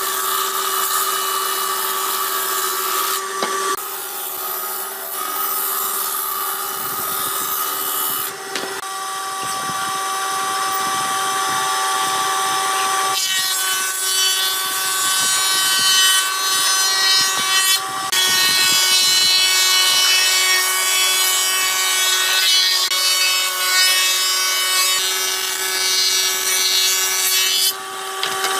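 An electric power tool running steadily while cutting or sanding wood: a constant motor whine under a rasping noise. The sound changes abruptly several times as the tool and the work change.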